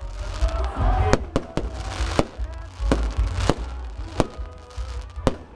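Fireworks display: a dozen or so sharp bangs going off at irregular intervals, over a steady low rumble.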